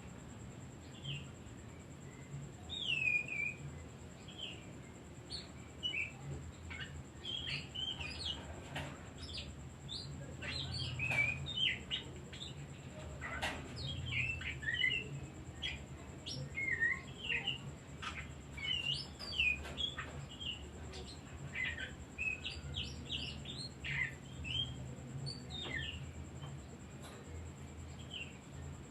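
Oriental magpie-robin (kacer) singing a busy run of short, varied whistles and chirps, with brief pauses between phrases.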